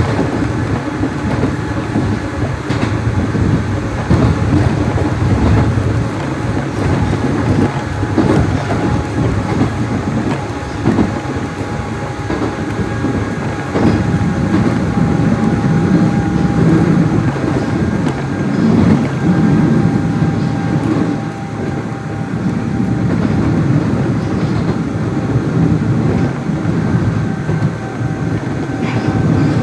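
Nishitetsu 600 series electric train running on the line, heard from on board: steady rumble of wheels on rail with clattering over the rail joints, under a steady faint whine.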